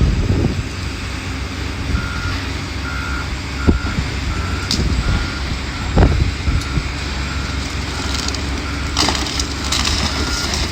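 Backup alarm of heavy demolition equipment beeping, about one and a half beeps a second, starting about two seconds in, over the low steady rumble of a diesel engine. A few knocks sound, the loudest about six seconds in.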